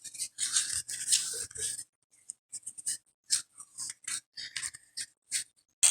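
16-gauge aluminum craft wire being pulled and handled while it is measured out: scraping and rustling for about two seconds, then scattered light clicks and ticks.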